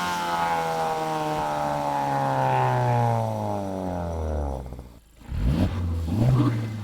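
Honda Civic Type R FL5's turbocharged 2.0-litre four-cylinder through a Milltek exhaust with its valve closed, the engine note falling steadily as revs drop. About five seconds in it cuts to the same engine on a Mugen exhaust, revving in short pulls.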